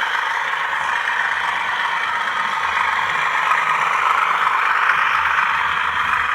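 Bachmann Class 37 model locomotive's DCC sound decoder playing a recorded English Electric diesel engine under power through the model's small onboard speaker: thin and buzzy with little bass, and slightly louder near the middle. The owner finds this speaker disappointing and says it vibrates.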